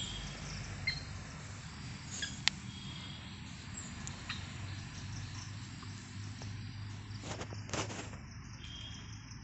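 Faint, short, high-pitched bird chirps or peeps, a few scattered through the first half, over a low steady hum. A few brief rustling clicks come about seven to eight seconds in.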